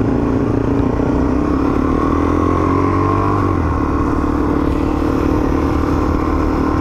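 Motorcycle engine running as the bike is ridden, its note rising slowly for a couple of seconds and then stepping down a little just past halfway.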